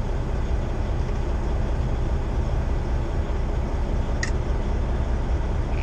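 Steady low rumble of a semi-truck's engine and road noise heard inside the cab, with one short click about four seconds in. The truck's turbocharger has failed, so it is running without boost.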